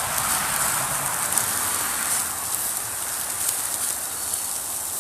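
Steady sizzling hiss of beef patties cooking over a wood and charcoal campfire, with a few faint crackles.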